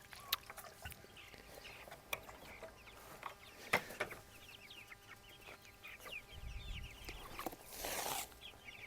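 Meat-bird chicks peeping, many short high cheeps overlapping. A few sharp clicks and a brief rustle near the end.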